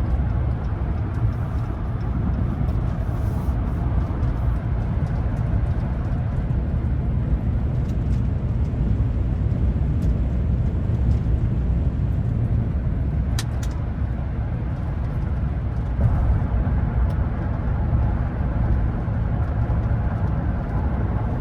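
Steady low rumble of engine and road noise inside the cab of a 2024 Ram 1500 with its Hemi V8, cruising. There is one faint sharp click about thirteen seconds in.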